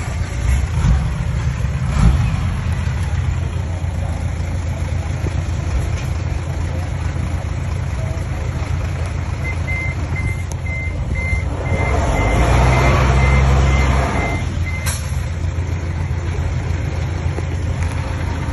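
Diesel engine of heavy earthmoving machinery running steadily under load, louder for a couple of seconds past the middle. A reversing alarm beeps in a quick regular series for about five seconds from about halfway in.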